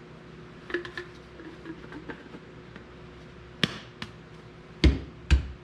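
Handling knocks and clicks: a few faint clicks early on, a sharp click past the middle, then three heavier knocks near the end.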